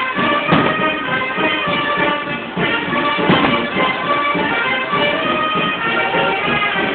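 Mexican brass band (banda de viento) playing a tune with sustained wind-instrument notes, cut through by a few sharp cracks or hits about half a second and about three seconds in.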